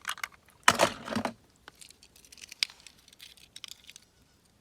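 A plastic toy bus being washed and handled: one loud scrubbing rustle about a second in, then small plastic clicks and short brushing rustles.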